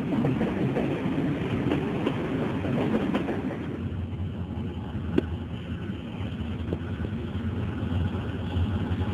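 Passenger coaches rolling past with a dense rattle and clatter of wheels on the rails. About three and a half seconds in, this gives way to the steady low drone of a diesel locomotive approaching at low speed.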